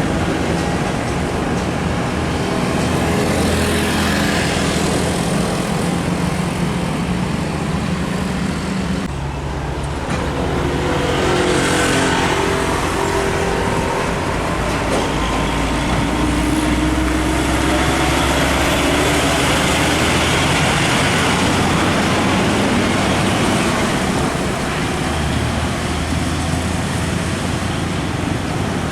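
Road traffic with heavy diesel trucks passing, engines running loudly, their pitch shifting as vehicles go by.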